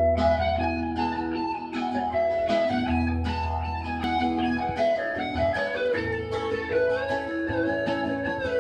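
Instrumental intro of a country song: an electric guitar picking a melody in evenly spaced plucked notes over a low bass line, before the vocals come in.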